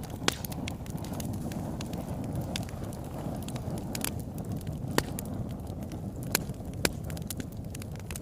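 Wood fire crackling: a low steady rush of flame with sharp, irregular pops and snaps, a handful of them standing out louder than the rest.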